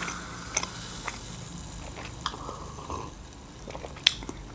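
Close-miked chewing with soft, wet mouth clicks, and one sharper click about four seconds in.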